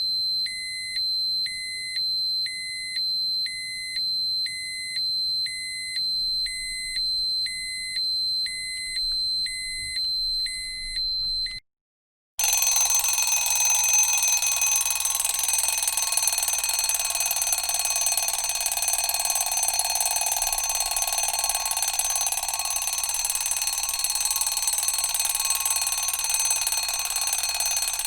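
Two electronic alarm sound effects. First a steady high tone with a beep pulsing just over once a second; it stops about twelve seconds in. After a short gap a continuous, harsh ringing alarm like an alarm bell starts and keeps going.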